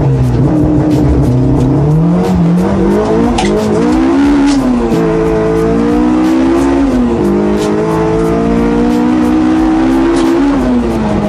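Honda Integra Type R DC5's K20 four-cylinder engine accelerating hard through the gears, its pitch climbing and then dropping at each of several upshifts before settling to a steady note near the end.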